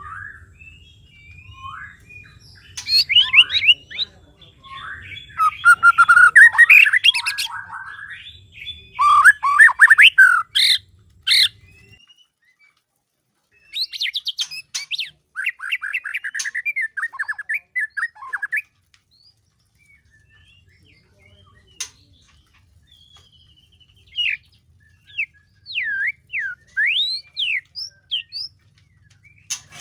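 White-rumped shama singing in breeding condition: loud bursts of varied whistles, rapid notes and harsh chatter in phrases broken by pauses, then a run of separate clear whistles sliding up and down near the end.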